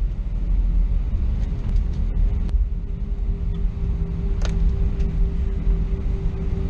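Airbus A320 cabin noise: a steady low rumble with a thin steady hum running over it and a few faint clicks.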